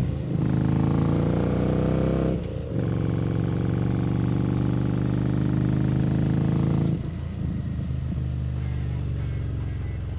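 Harley-Davidson Street Rod 750's 750 cc V-twin engine running under way on the road. There is a short break in the engine note about two and a half seconds in, and the engine quietens about seven seconds in.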